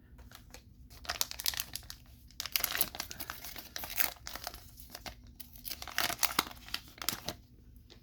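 Foil wrapper of a Kayou Naruto card booster pack crinkling and tearing as it is ripped open by hand, in irregular crackly bursts that stop about a second before the end.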